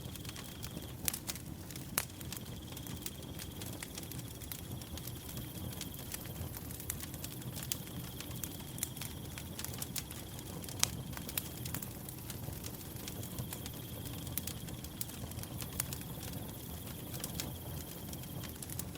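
Wood fire crackling, with scattered sharp pops over a steady low rumble; the loudest pop comes a little past the middle. A cricket trills steadily behind it, pausing briefly a few times.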